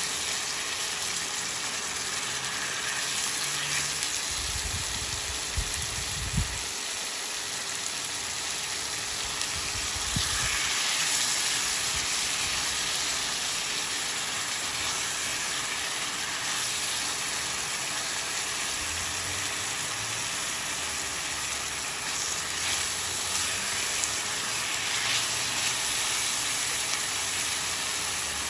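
Onions frying in cooking oil in a pan, a steady sizzle, with a few dull low thumps about five to six seconds in and again around ten seconds.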